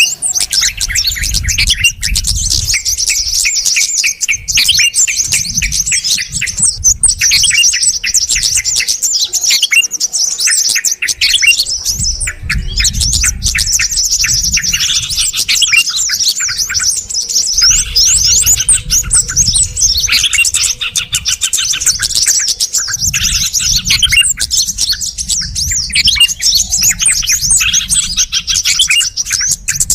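Yellow-vented bulbuls (trucuk) and sooty-headed bulbuls (kutilang) calling together in a dense, noisy chatter of rapid chirps with hardly a pause: the agitated bulbul calling used to lure small birds.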